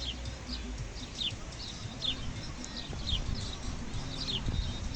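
Small bird calling over and over in short, falling chirps, about two a second, over a low rumble of wind on the microphone.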